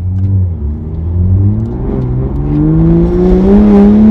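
2020 Toyota Supra engine running with no exhaust system fitted, loud and raw, as the car accelerates: a steady low note at first, then the pitch climbs steadily from about a second in.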